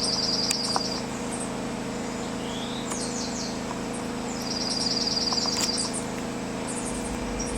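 Dark-eyed junco singing its song twice, a rapid even trill about a second and a half long each time. Short high chips and a few quick down-slurred notes come between the trills, over a steady low hum.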